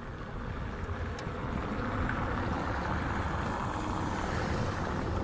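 Traffic noise: a vehicle going by swells up about a second in and stays loud, over a low rumble of wind on the microphone.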